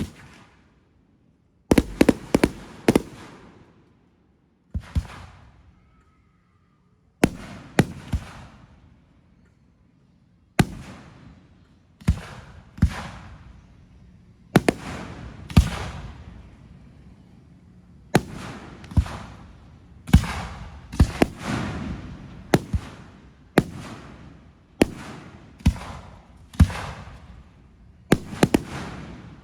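Fireworks going off one after another: sharp bangs, each trailing off in a fading crackle and echo. They come irregularly, often two or three in quick succession, with a couple of brief silent pauses a few seconds in.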